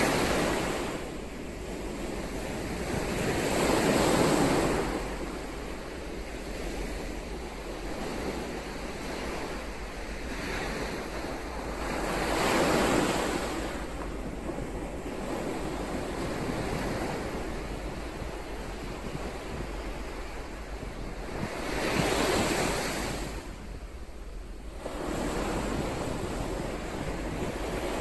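Ocean surf: waves breaking and washing up the shore, swelling and fading again. Larger breakers come at the very start, about four seconds in, near the middle and about three quarters through.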